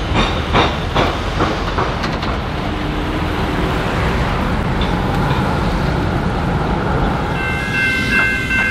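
Train wheels clattering over the rail crossing: a quick run of sharp clacks, then a steady rolling rumble. Near the end, steady tones come in.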